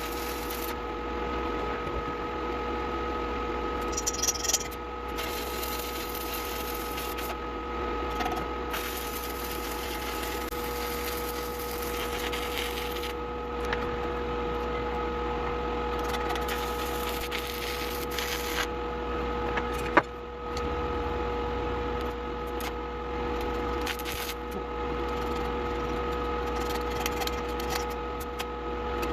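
Steady machine hum with several fixed tones over a hiss, sped up with the fast-forwarded shop footage. A single sharp click about twenty seconds in.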